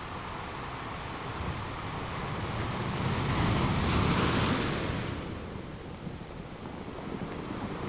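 Ocean surf: a wave's rushing crash swells from about two seconds in, peaks near the middle and fades away over a steady wash of water.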